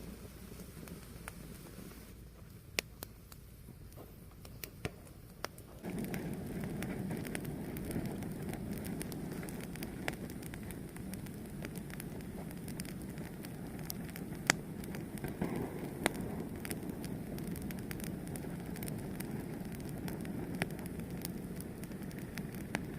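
Fire burning and crackling, with scattered sharp pops over a low rushing sound of the flames that grows louder about six seconds in.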